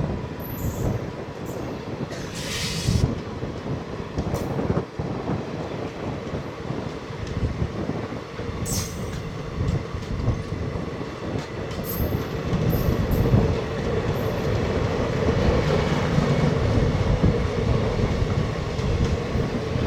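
ICF-coached passenger train running on the track: a continuous rumble and rattle of wheels and coaches, with a faint steady whine. It grows louder about twelve seconds in.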